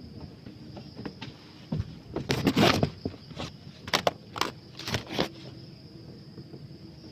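Dry leaves and twigs crackling and rustling in a handful of short, irregular bursts, the loudest a couple of seconds in, over a steady faint high-pitched hum.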